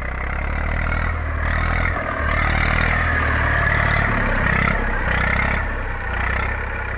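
Eicher 380 tractor's diesel engine running under load, its sound swelling about a second in and easing off near six seconds.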